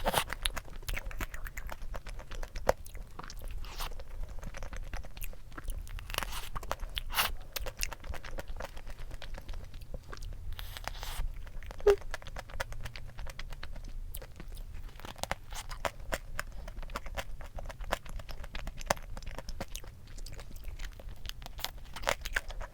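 A person chewing and biting into cream-filled doughnuts close to the microphone: a steady run of irregular mouth clicks, smacks and soft crunches.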